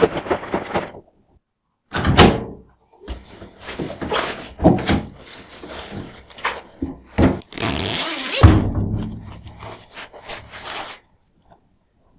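Handling noise: irregular knocks and thumps with rustling between them, the loudest thumps about 2 and 8.5 seconds in, and a short steady hum after the last one.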